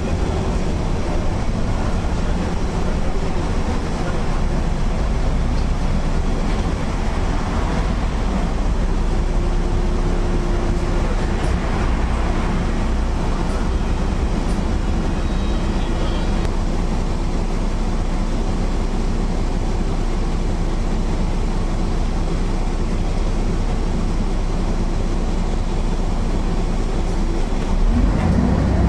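MAN NL 262 low-floor city bus from 2000 under way, its diesel engine and ZF 5 HP 600 automatic gearbox running with a steady drone; the pitch shifts near the end.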